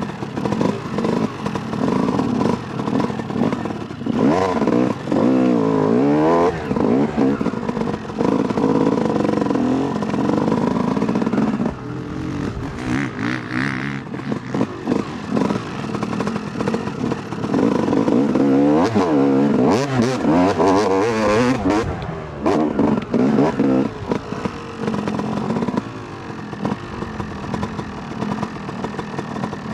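2008 Yamaha YZ250 two-stroke dirt bike engine being ridden off-road, revving up and down over and over as the throttle opens and closes and the gears change.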